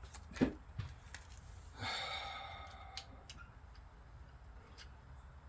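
Scattered clicks and knocks from parts being handled, the loudest about half a second in, then about two seconds in a sudden ringing tone that fades away over a second or so.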